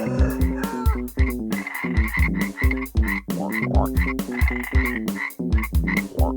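Frog croaking, repeated calls over background music with a steady beat and bass line.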